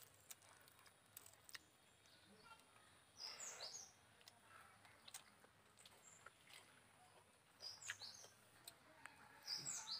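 Faint bird chirps over near silence: three short clusters of high, quick, falling notes, a few seconds in, near eight seconds and near the end.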